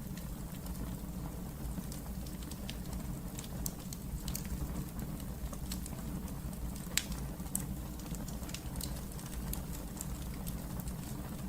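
Wood fire burning in a fireplace: a steady low rumble of flames with scattered sharp crackles and pops, the loudest about seven seconds in.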